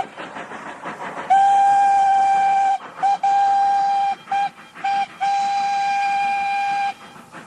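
Steam locomotive whistle sounding a series of single-pitched toots: a long blast, a short one, another long one, two short ones and a final long blast. Before it, about the first second holds faint rhythmic chuffing.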